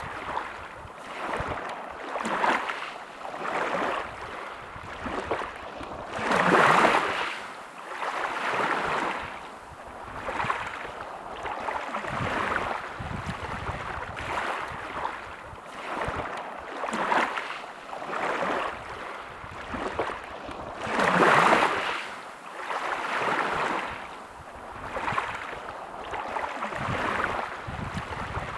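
Small sea waves washing onto a shore, one after another every couple of seconds, with two larger waves breaking about seven seconds and twenty-one seconds in.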